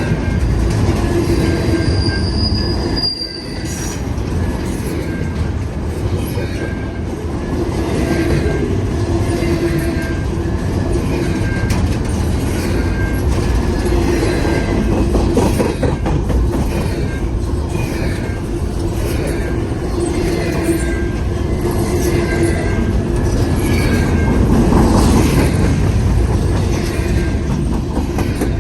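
Long intermodal freight train rolling past: a steady roar of car wheels on rail, with squealing wheel flanges and regular clicking as the wheels cross rail joints.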